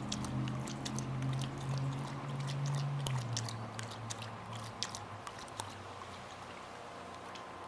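A dog lapping water, a quick irregular run of wet clicks that thins out after about six seconds, over a steady low hum that drops in pitch about three seconds in.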